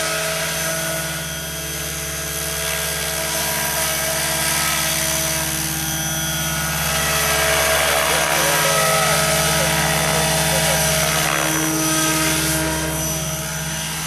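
Radio-controlled model helicopter in flight: a steady hum from the motor and rotor over a rushing rotor wash. It grows a little louder about halfway, then eases near the end.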